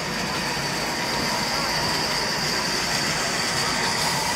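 Old Ruston Hornsby stationary diesel engine running steadily, with a steady high whine over the engine noise.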